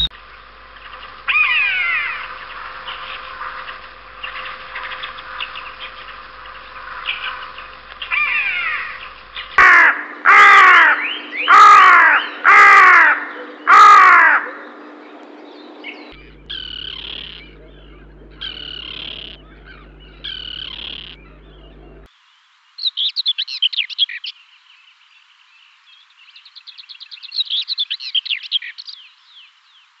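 Bird calls from several recordings joined one after another. First come gliding songs. Then five loud calls about a second apart, the loudest part. Then three shorter calls about two seconds apart, and rapid chirping trills near the end.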